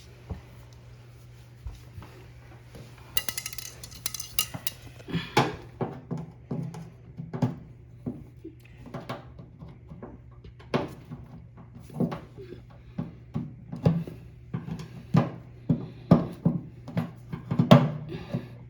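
Flat-head screwdriver tapping, prying and clinking against the metal parts of a washing machine during door-seal removal: many irregular sharp knocks and clatters over a steady low hum.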